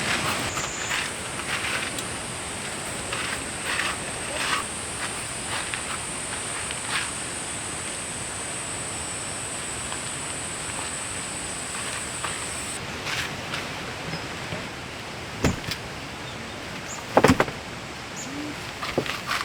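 Steady rush of a valley stream with a steady high whine that stops about two-thirds of the way through, light scattered taps, and two sharp knocks near the end, the second the loudest.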